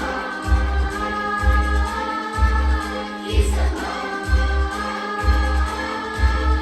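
A song with a group of voices singing over a backing track, with sustained chords and a steady bass beat about twice a second.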